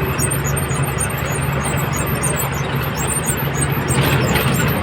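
Truck engine running steadily at road speed, a constant low hum under road and wind noise.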